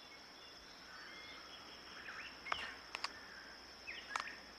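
Faint natural ambience: a steady high-pitched insect trill, like crickets, with a few short bird chirps and several sharp clicks about halfway through.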